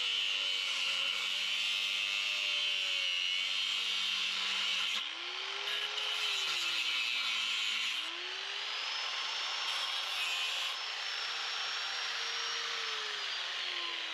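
Lawn mower engine running steadily with a hiss from the cutting, its pitch dipping and climbing again a few times as the load changes.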